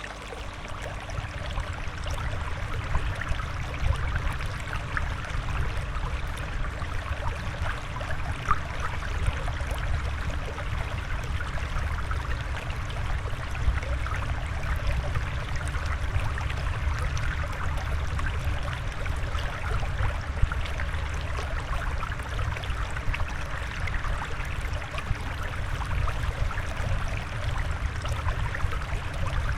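Steady flowing, trickling water with a low rumble underneath, like a fish tank's water sound.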